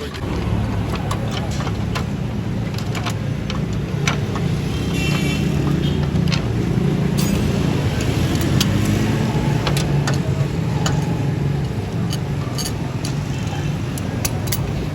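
Toyota Corolla Altis running with a steady low drone, with scattered light clicks and knocks over it.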